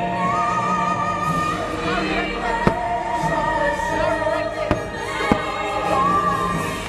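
Fireworks show soundtrack: orchestral music with a choir and a singer holding long notes, with three sharp firework bangs in the middle.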